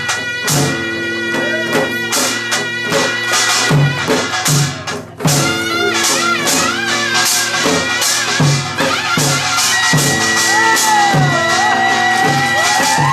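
Korean folk percussion band playing dance music: dense, clanging metal gong strikes over regular low drum beats about once a second. From about ten seconds in, a wavering melodic line joins over the rhythm.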